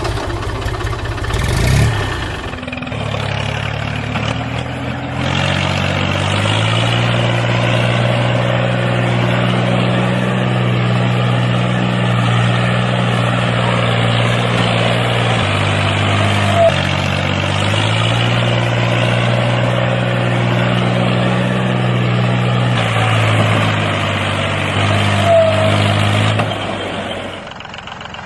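Engine running in the mini tractor. Its pitch steps up as it revs, holds steady, drops about halfway, steps up again, then winds down and stops near the end.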